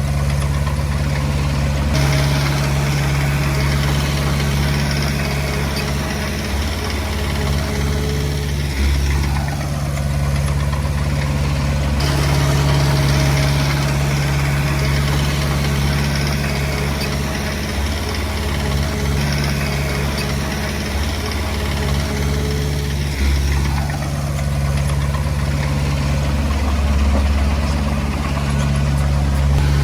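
Komatsu D20P bulldozer's diesel engine running steadily with a low, even drone.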